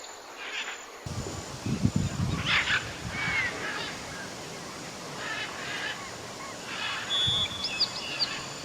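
Waterfowl giving short honking calls at intervals over a steady outdoor background hiss, with a few thin high chirps from a small bird near the end.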